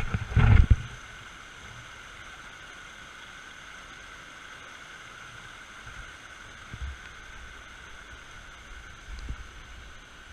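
Creek water flowing steadily. There are a few low thumps on the microphone, loudest in the first second.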